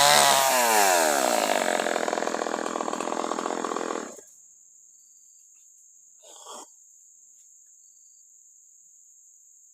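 Two-stroke chainsaw engine running, its pitch dropping about a second in, then running on until it cuts off suddenly about four seconds in. After that, a steady high buzz of crickets or other insects, with one brief rustle.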